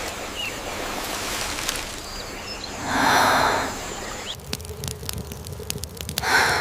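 Outdoor ambience with a faint bird chirp and a loud rushing swell about three seconds in. From a little past the middle it changes abruptly to a run of sharp, irregular crackling clicks.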